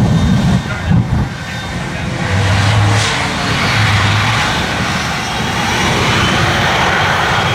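Loud, steady rushing engine noise, growing louder about two seconds in.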